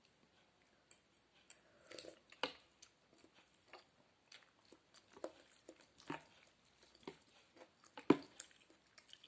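A person eating hot noodle soup close to the microphone: irregular wet slurps, smacks and chewing sounds, with the loudest smacks about two and a half seconds in and again near the end.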